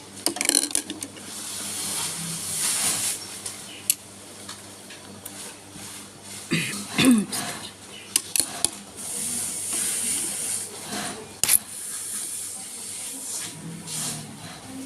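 Scattered sharp clicks and rustling handling noise, as of hands working on a sewing machine and its presser foot, with a brief wavering pitched sound about seven seconds in.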